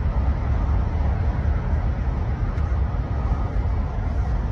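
Steady low rumbling noise with an even hiss above it, unchanging throughout.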